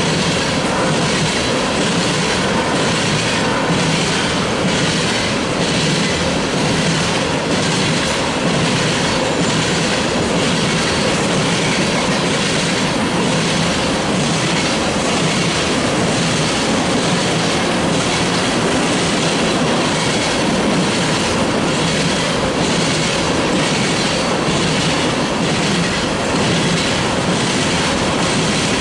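Freight train cars rolling past close by, a loud steady rumble of wheels on rail with regular clickety-clack as the wheels cross rail joints.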